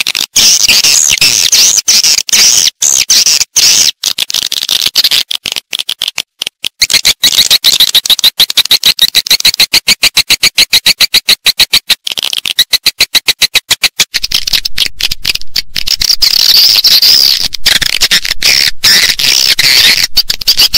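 Edible-nest swiftlets calling: a dense, high-pitched chittering twitter, with a fast, even run of clicks through the middle. This is a recorded swiftlet call track of the kind played to lure the birds into a nesting house.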